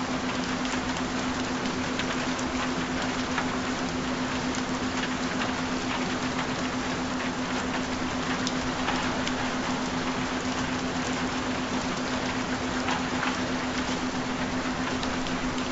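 Steady rain with scattered individual drop ticks, layered over a continuous low steady tone.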